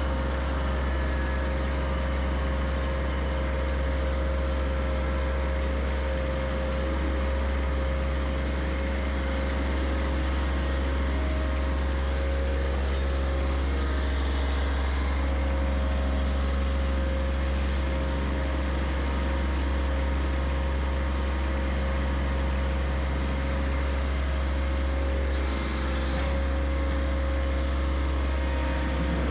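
Diesel tractor engine running steadily, a constant low drone with a steady hum above it.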